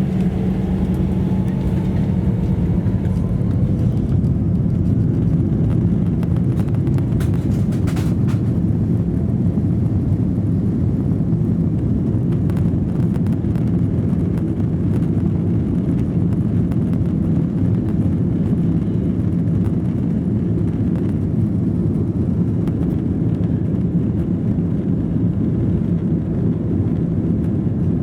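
Airbus A321 jet engines at high thrust heard inside the rear of the cabin, giving a loud, steady deep rumble. A rising whine fades out in the first few seconds.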